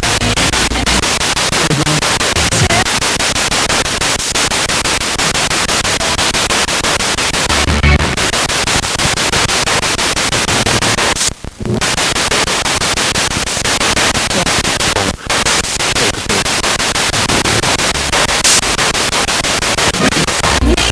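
Spirit box radio sweeping through stations: loud, continuous static chopped by rapid clicks as it jumps channel to channel, with brief low snatches of broadcast sound. The static drops out briefly about eleven and a half seconds in and again about fifteen seconds in.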